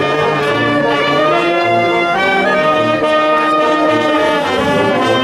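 Brass band playing, trumpets and trombones holding notes over repeating bass notes.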